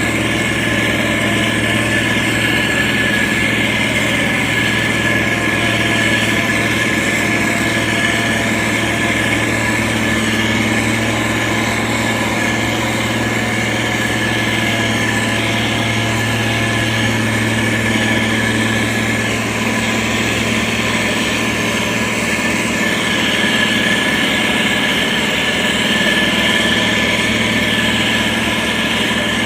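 Diesel engine of a heavy road-construction machine running steadily at a constant speed.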